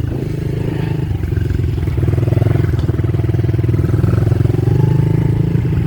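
Dirt bike engine running steadily close by, a little louder from about two seconds in.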